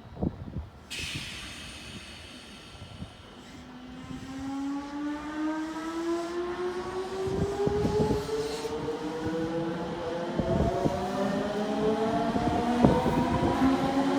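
Odakyu electric commuter train's traction motors whining as it accelerates, a stack of tones rising steadily in pitch and growing louder, with a few knocks from the wheels on the track. A hiss of air sounds about a second in.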